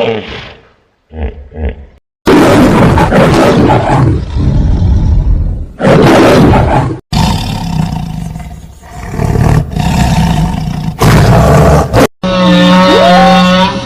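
A large animal roaring in long, loud, rough bursts, with a few short grunts before the first one. Near the end it gives way to a different call with steady tones and short rising whistles.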